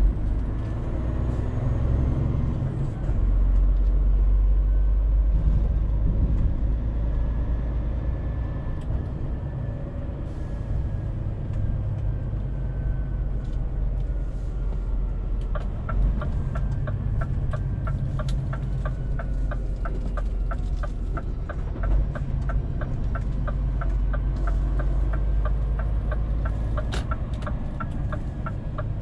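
Scania truck's diesel engine running steadily on the move, with a faint whine gliding slowly up and then down. About halfway in, the turn-signal indicator starts ticking at a steady rate and keeps going.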